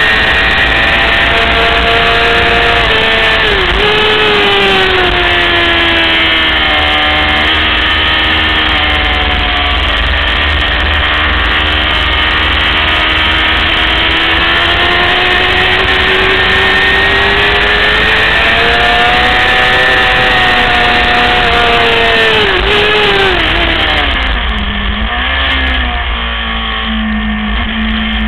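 600cc racing motorcycle engine running hard. Its note drops sharply about four seconds in, then climbs slowly for some fifteen seconds. Near the end it falls away to a lower, quieter steady note as the bike slows.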